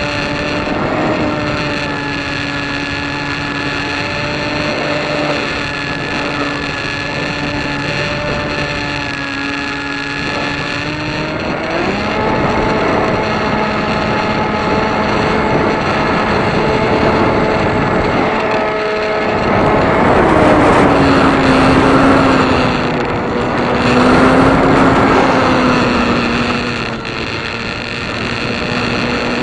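Light aircraft piston engine running with a steady drone; its pitch steps up about twelve seconds in and drops back lower about twenty seconds in. A louder rushing noise comes in between about twenty and twenty-five seconds in.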